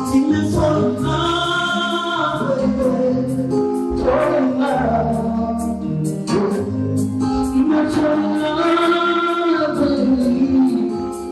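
Live band music with voices singing phrases of a few seconds each over a steady bass line and an even ticking beat.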